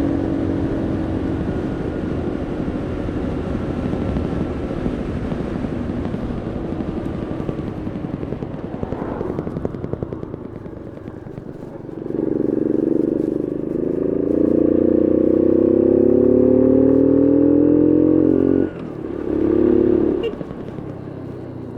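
Bullit Heritage 125cc monkey bike's single-cylinder engine running while ridden, then revving hard about halfway through, rising in pitch and cutting off sharply, with a short second rev near the end.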